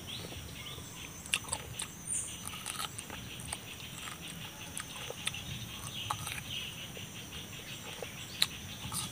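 Close-up chewing of crunchy raw green papaya: irregular crisp crunches and wet mouth clicks, with one sharper crunch near the end.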